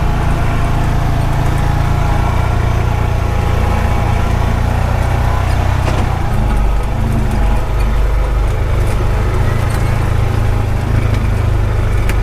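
Honda Pioneer 520 side-by-side's single-cylinder engine running steadily, with its low note shifting about six and a half seconds in.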